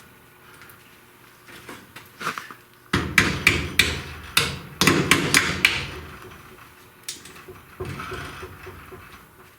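Hammer blows: a few light taps, then a quick run of about a dozen sharp strikes, a little over three a second, then a few lighter taps near the end.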